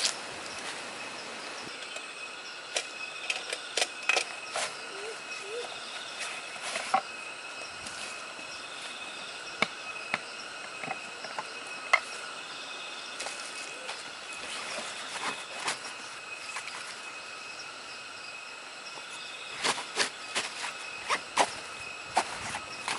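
Steady chorus of forest insects holding several continuous high tones, with scattered sharp clicks and snaps over it, bunched near the start and again near the end.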